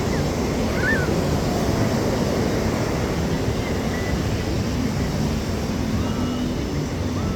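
Busy beach ambience: steady surf noise with faint, distant crowd voices and a few brief high chirps.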